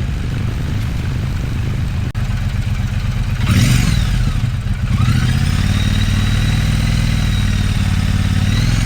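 Triumph Bonneville Bobber's 1200 cc parallel-twin engine running, with a loud surge about three and a half seconds in; about five seconds in the revs climb, hold higher, then ease off near the end.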